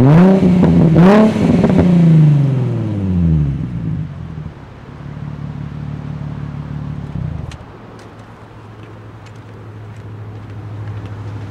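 Infiniti G35's V6 through a custom exhaust, revved twice in quick blips and falling back to idle by about three seconds in. The idle then steps down to a lower, steady note about seven seconds in, with a few faint clicks.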